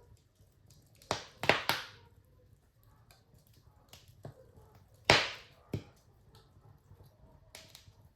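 Wood fire crackling in a fireplace, with sharp pops of burning logs. There are three close pops about a second in, a loud single pop about five seconds in and another soon after, and faint ticks between them.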